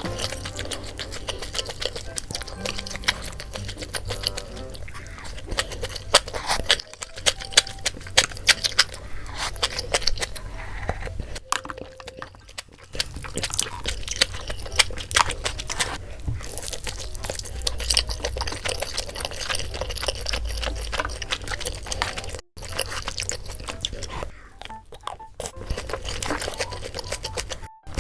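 Close-miked eating sounds, many quick wet clicks of chewing and slurping a spicy mala noodle soup with crispy fried pork, over light background music.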